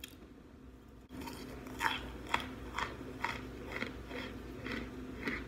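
A person chewing a hard, brittle chunk of baked clay pot: a run of crisp crunches, about two a second, starting about a second in.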